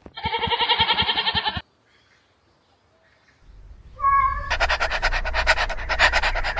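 A sheep bleating in one trembling call of about a second and a half, then a pause. About four seconds in, a cat gives a short meow. Then comes a fast, regular raspy panting, which fits a dog.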